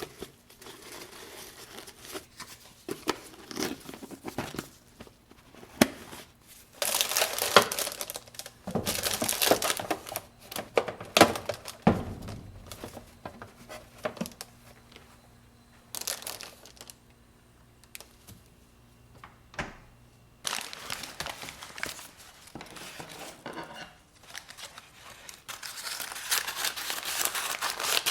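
Crinkling and tearing of paper or plastic wrapping as food is handled, in irregular bursts with a quieter pause in the middle.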